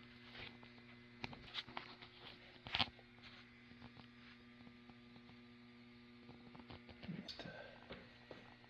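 Quiet room tone with a steady electrical mains hum and scattered light clicks and taps, the loudest a little under three seconds in.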